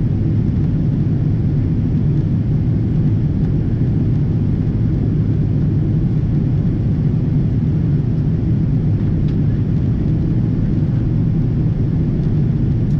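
Steady low drone of a Boeing 777-200ER's Rolls-Royce Trent engines and airflow, heard inside the cabin from a window seat. The level holds even throughout.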